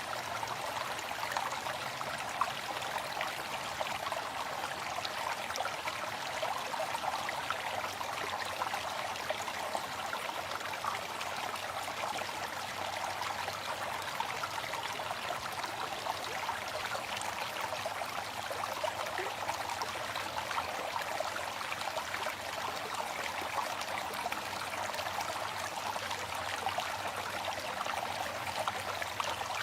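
Waterfall: water falling and splashing in a steady, even rush, mostly in the middle and upper range with little low rumble.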